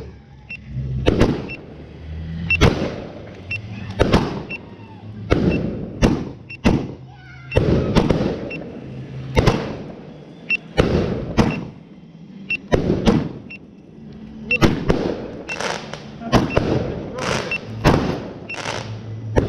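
A large firework cake firing a long run of shots, one or two bangs a second, each with a short echoing tail.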